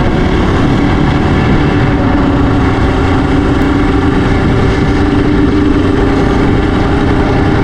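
Yamaha Raptor 700R ATV's single-cylinder engine running loud and steady.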